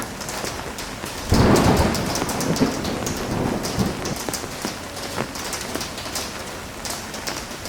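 Heavy rain falling, with many separate drops striking close by. About a second in, a sudden loud clap of thunder comes in and rumbles away over the next couple of seconds.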